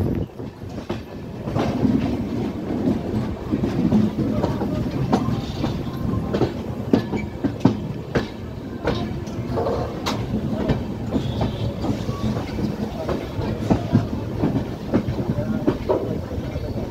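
Passenger train's wheels running over rail joints and points: a steady rumble broken by irregular clicks and clacks, heard from the moving coach at its open side.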